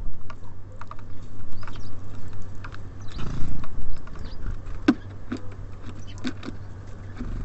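Small songbirds feeding at a bird feeder: irregular sharp taps and knocks of beaks pecking seed and feet landing on the feeder, with a brief rustle about three seconds in. A steady low hum runs underneath.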